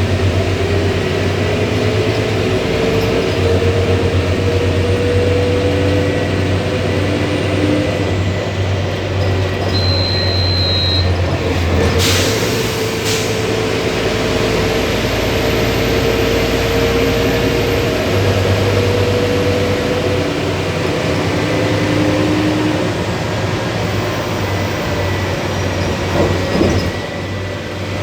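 Scania city bus driving, heard on board. A steady low engine drone runs under a drivetrain whine that slowly rises in pitch as the bus gathers speed, twice over. About halfway through there are two short sharp hisses, and the engine drone eases for a few seconds.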